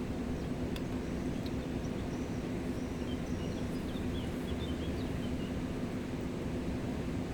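Steady rushing of the Gave de Pau river, with a few short, high bird chirps about three to five seconds in.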